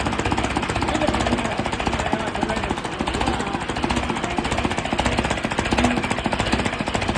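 Hindustan tractor's diesel engine running steadily on test, with a fast, even knocking beat.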